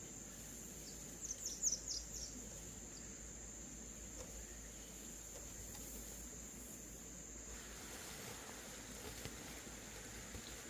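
Insects, crickets or cicadas, keep up a steady high-pitched drone. About a second and a half in, a quick burst of bird chirps cuts in.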